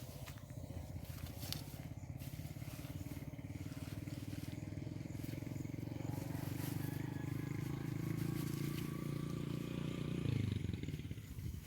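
A small engine running steadily and growing slightly louder; about ten seconds in its pitch drops and the sound fades away.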